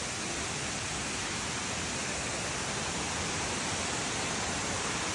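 Waterfall rushing: a steady, even wash of water noise.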